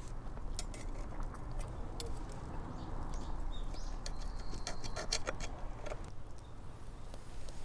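Irregular crackles and pops over a steady low rumble from cooking on a wood-burning fire stove, most frequent in the middle. There is a brief high steady tone a little over four seconds in.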